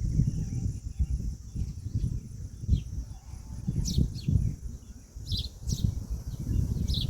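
Outdoor ambience: scattered short, high chirps of small birds and a steady high insect drone over a low, irregular rumble. No clear peahen call stands out.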